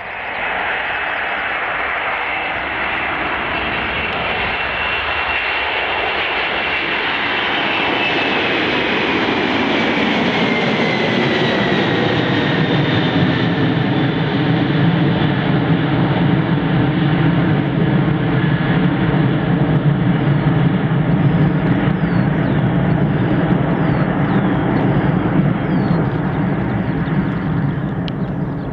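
Jet airliner's engines passing close by. A high whine slides down in pitch as it goes past, then a deep, steady rumble builds and holds.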